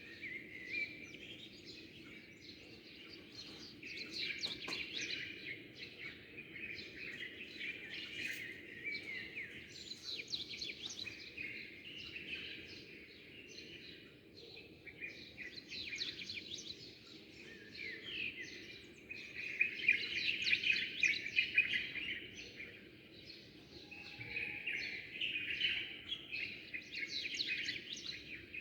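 Many small birds chirping and twittering at once, a dense chorus of quick overlapping calls and trills, over a steady low background hum.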